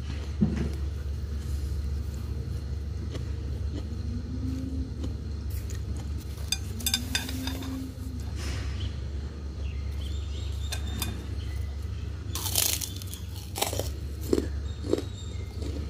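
Crunchy bites and chewing of a crisp piece of food, a few crackly crunches about halfway and a cluster of louder ones in the last few seconds, over a steady low hum.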